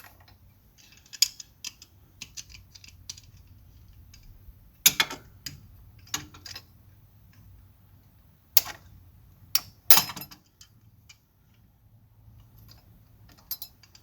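Irregular metallic clicks and clanks of pliers and a pry bar working a hose clamp back into position on a tractor's hydraulic hose, with the sharpest knocks about 5, 8.5 and 10 seconds in.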